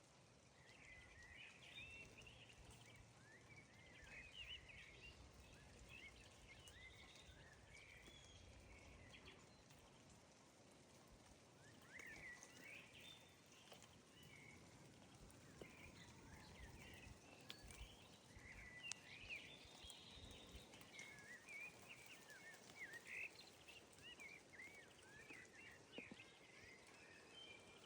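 Faint twittering of many small birds: short, high chirps overlapping and coming in quick clusters, over a low rumble of background noise.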